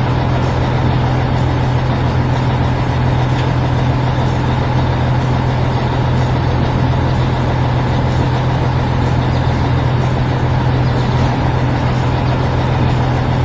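Heavy construction-vehicle engine running steadily at an unchanging speed, a loud constant hum.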